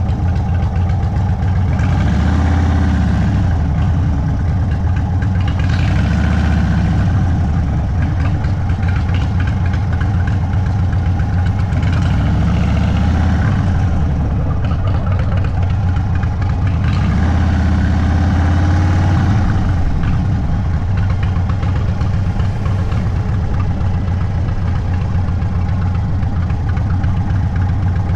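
Indian Sport Chief's Thunderstroke 116 V-twin through a Sawicki Speed exhaust, running at low speed near idle, its note rising and falling gently about four times as the throttle is rolled on and off.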